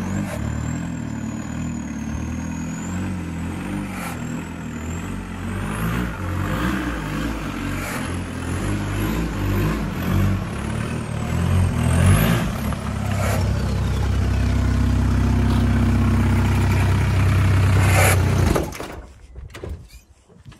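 Volkswagen Golf Mk4 engine running, its pitch shifting unevenly up and down, then settling into a steady drone before cutting off suddenly about eighteen seconds in.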